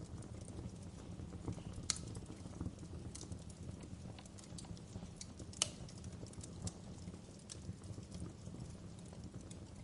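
Wood fire crackling: a steady low rumble of burning with irregular sharp pops, two louder snaps at about two seconds and near the middle.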